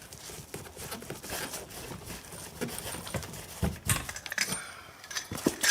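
Metal hand tools clicking and clinking as a socket wrench works a nut welded onto a stuck bolt, with a few sharper metallic knocks near the end. The attempt to break the bolt loose fails; the welds on it are not holding.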